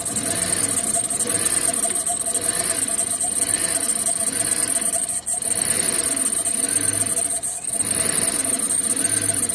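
Chevy Tahoe 5.3 V8 running on a cold start with its MAP sensor unplugged. The sound rises and falls in pitch about once a second. The engine is barely keeping itself running because of an intake manifold gasket vacuum leak, and it is about to cut off.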